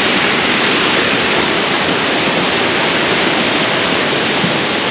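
Wagner Falls, a waterfall with side cascades, rushing in a steady, even wash of water noise.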